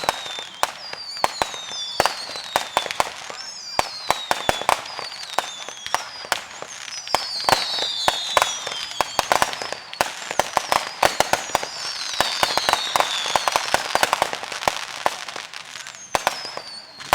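Fireworks going off in rapid succession: a dense run of sharp bangs and crackling pops, with several whistles falling in pitch laid over them. The barrage is thickest through the middle.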